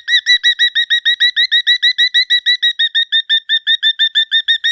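Cockatiel chirping in a fast, even string of short, sharp notes, about eight or nine a second, without a break.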